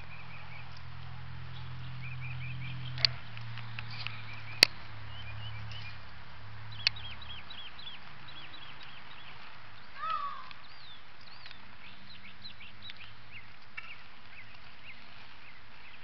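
Small birds chirping in quick, repeated short notes over a low steady hum that stops about halfway through. A few sharp clicks are the loudest sounds, and one short descending bird call stands out near the middle.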